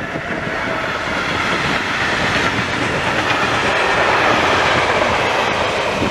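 Freight train of open and flat wagons passing at speed: steady rumble and rattle of steel wheels on rail, building up over the first second, with a faint falling tone near the start.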